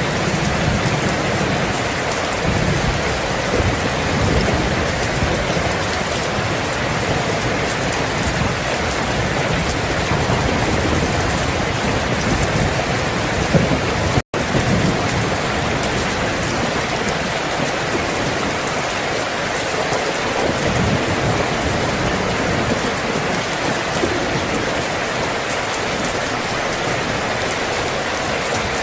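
Steady rain, with a low rumble of thunder through the first half. The sound cuts out completely for a split second about halfway through, then the rain carries on.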